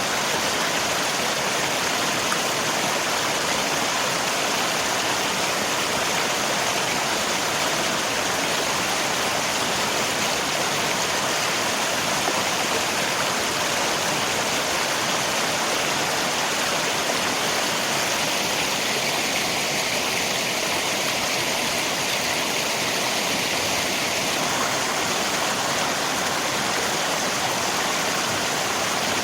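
Steady rush of flowing river water mixed with rain, an even, unbroken wash of noise.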